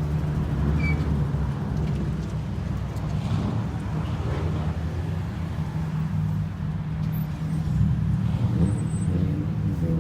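Car engine running steadily at idle, a constant low rumble with no revving.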